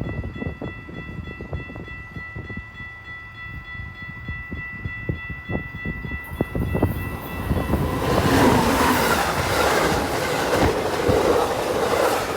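Train passing close by, its wheels clicking rapidly over the rail joints, with a steady high whine over the first half. About eight seconds in, a louder rushing noise swells up and holds.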